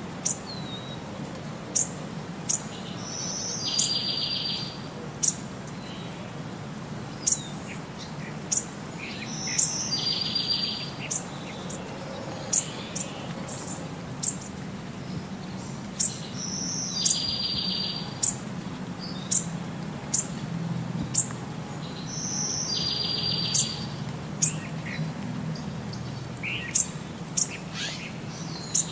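Birdsong: sharp high chirps and a short rapid trill, the same phrase coming round about every six and a half seconds like a looped recording, over a faint low rumble.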